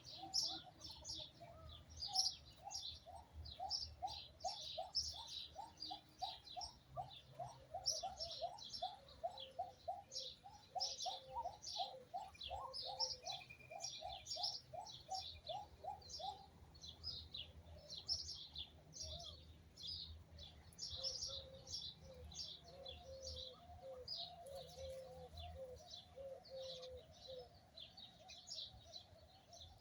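Birds chirping continuously in quick high chirps. Underneath, a lower call repeats rapidly, several notes a second, for about the first half and returns more faintly later.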